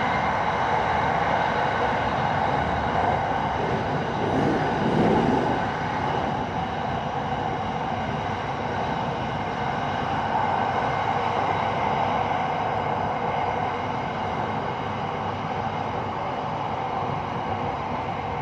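Interior of an SRT Red Line electric commuter train running: a steady rolling rumble with several steady motor tones over it. A brief louder rush comes about four to five seconds in.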